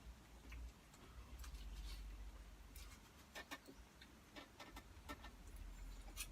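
Faint, irregular clicks and light taps of cutlery against a plate while eating, over a low steady hum. The clicks are most frequent from about a second and a half in, with a sharper one near the end.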